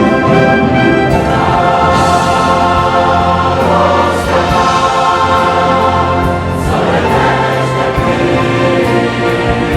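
Choir singing with orchestral accompaniment, held sustained chords.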